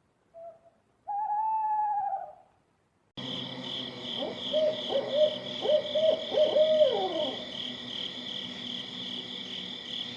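Owl hooting: one long arched hoot, then, after a cut to steady background noise, a quick run of about eight short hoots ending in a falling note.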